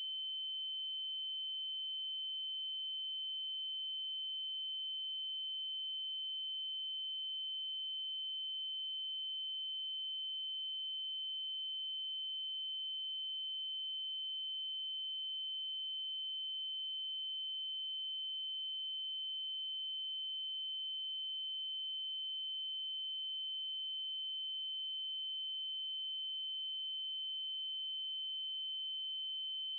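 A steady synthesized 3072 Hz triangle-wave tone: one high, unwavering pitch held without change, with faint upper overtones.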